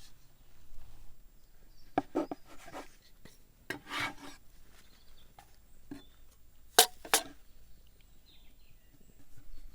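Handmade pasta dough being worked by hand: short rubbing and scraping strokes, with two sharp clicks close together about seven seconds in.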